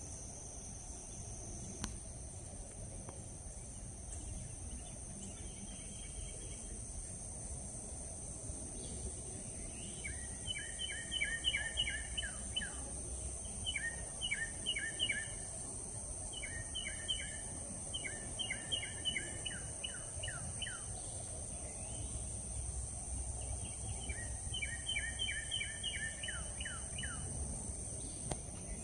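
A bird calling in phrases of quick, evenly spaced notes, about four a second, each phrase lasting two to three seconds and repeated several times with short gaps. A steady high insect buzz runs underneath.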